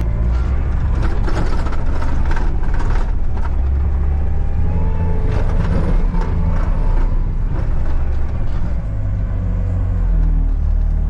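Skid steer's engine running steadily as the machine drives, with scattered clanks and rattles over the top.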